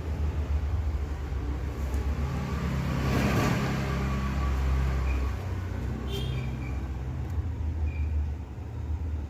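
Motor vehicle engine running with a steady low hum, with a louder swell of noise about three seconds in.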